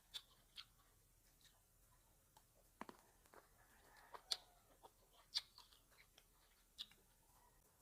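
Close-miked mouth sounds of eating grapes: irregular wet clicks and smacks as grapes are bitten and chewed, the two loudest a little past the middle.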